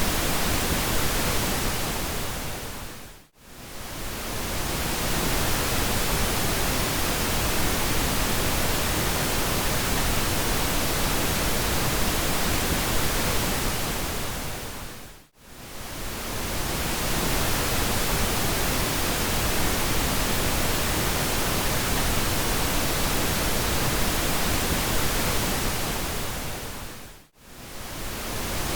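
Steady pink noise, an even hiss across the whole range, that fades down to near silence and straight back up three times, about every twelve seconds.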